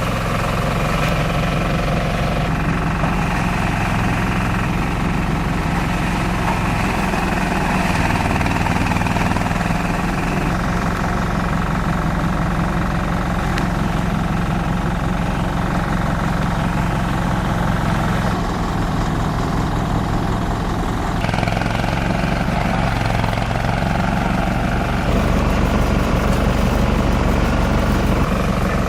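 Engine-driven multi-purpose chopper/shredder machine running steadily, with a continuous rough drone that shifts in tone a few times, about two-thirds of the way in and again near the end.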